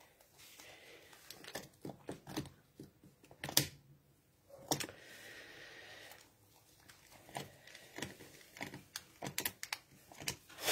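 Koala joey scrambling about on a wooden tree fork, making irregular clicks, knocks and scratches of claws on wood, with one louder knock a few seconds in.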